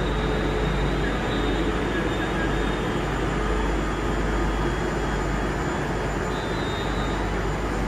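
London Northwestern Railway electric multiple-unit train moving along the platform: a steady rumble of wheels and running gear, with a faint high whine that comes and goes.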